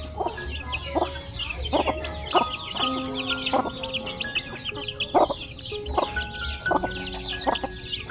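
Chickens clucking, with a dense, continuous chorus of high-pitched chirping, over background music with held notes and a regular beat.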